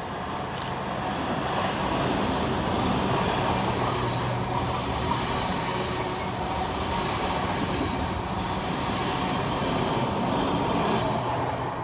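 LNER Class 801 Azuma train crawling slowly through the station, a steady rumble of wheels on rail with a low motor hum. It builds over the first couple of seconds and then holds.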